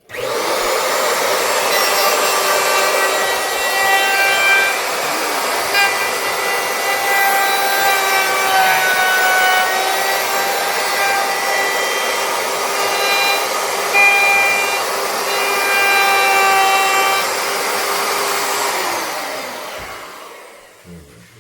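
Electric wood router running and cutting wood, widening a hole in a board: a steady high motor whine over a rough cutting noise. It starts suddenly and winds down near the end.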